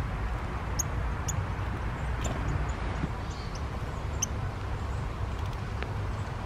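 Steady rain patter with a low rumble, broken by a few short, high-pitched chirps from small birds, several in the first half.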